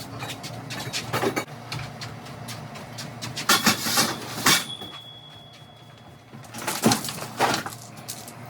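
Clusters of clattering knocks and crashes, in three bursts, the loudest a couple of seconds apart; one crash leaves a thin high ringing tone for about two seconds.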